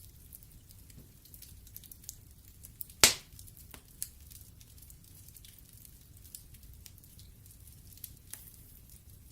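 Wood fire burning in a fireplace: a low steady rumble of flames with scattered small crackles, and one loud sharp pop from the logs about three seconds in.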